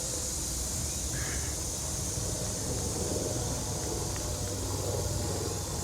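Steady hum of road traffic, with a constant high-pitched buzz of insects over it.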